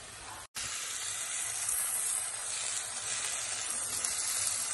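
Chicken pieces coated in chilli and coriander powder sizzling steadily in oil in a pressure cooker pan while the masala fries. The sizzle cuts out for an instant about half a second in.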